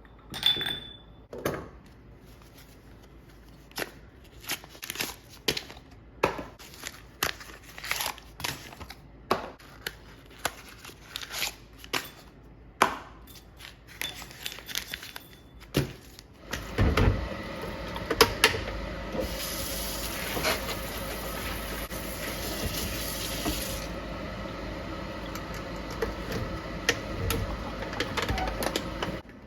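Scattered clicks and knocks of kitchenware being handled, then about halfway through water starts running steadily, filling a container, for roughly thirteen seconds before stopping just before the end.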